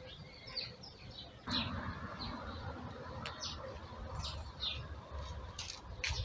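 Small birds chirping over and over in short high calls. About a second and a half in comes a sudden knock with rustling after it.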